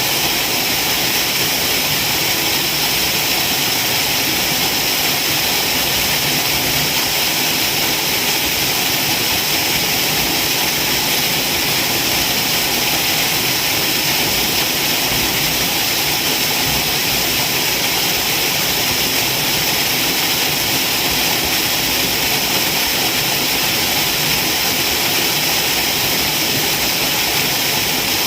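Waterfall: water falling and rushing in a loud, unbroken, steady hiss.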